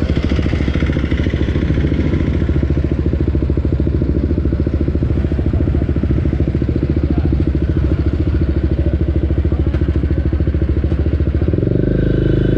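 Motorcycle running under way through a replica Akrapovic exhaust, with steady, rapid firing pulses. About eleven seconds in the note shifts heavier and lower. The bike is a BMW G310R, whose engine is a single-cylinder.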